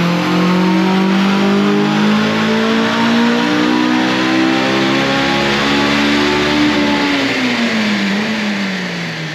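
Honda S2000 four-cylinder engine through its aftermarket cat-back exhaust, revs climbing steadily for about seven seconds, then falling away near the end.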